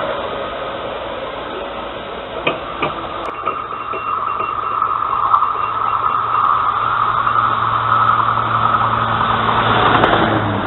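A train running and drawing nearer, its steady low hum and running noise growing louder through the second half, with a few sharp knocks about two and a half seconds in.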